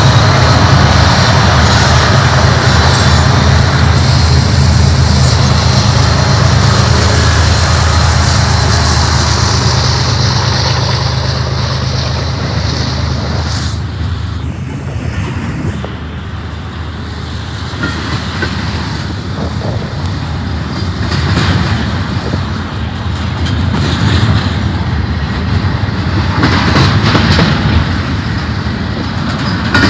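Freight train passing close by. For the first dozen seconds, the steady low drone of the BNSF diesel locomotives' engines dominates. It then fades into the rolling rumble and clatter of double-stack intermodal well cars' wheels on the rails, swelling louder every few seconds.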